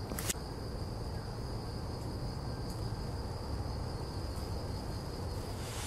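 An insect, cricket-like, trilling steadily on one high note over a low background rumble, with a short click just after the start; the trill stops at the very end.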